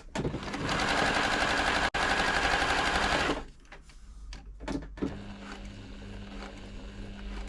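Silver/Pfaff 1139 sewing machine running at speed for about three seconds, with a brief break partway, as it sews a test seam after its tension repair. After that come quieter handling clicks and a low steady hum.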